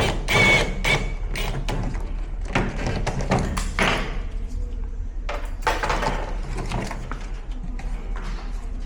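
Irregular knocks and taps of hard objects, with a brief high metallic ring near the start, over a steady low hum.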